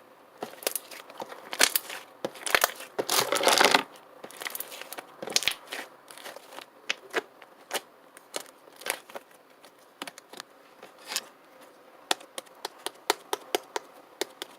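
Irregular small taps and clicks close to the microphone, with a second-long burst of crinkling rustle about three seconds in, then scattered sharper clicks near the end.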